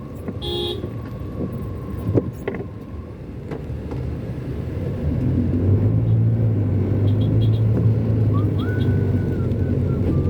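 Car engine running as the car drives in traffic, its low hum growing louder and steadier about halfway through. There is a short toot about half a second in.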